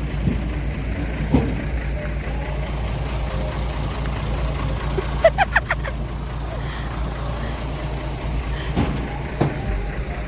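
Truck engine idling with a steady low rumble, with a few knocks and bumps from loading and a brief burst of short high calls about halfway.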